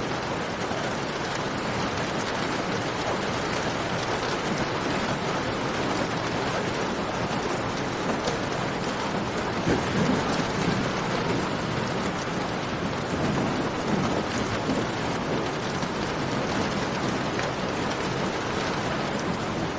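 Steady rain falling in a cave, mixed with the small pops and crackles of a campfire. A few louder low swells come through about halfway.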